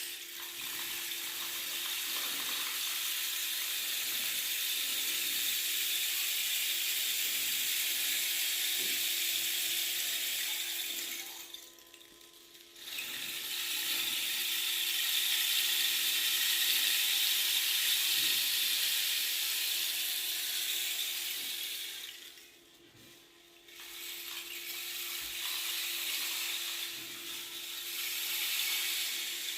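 Rain stick pouring: a continuous high, rattling hiss of pellets trickling down through the tube. It stops twice for about a second as the stick is turned over, then starts pouring again. A faint steady hum runs underneath.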